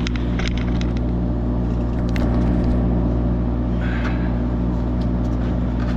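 A heavy machine's engine running steadily, with a few short metal clinks over it.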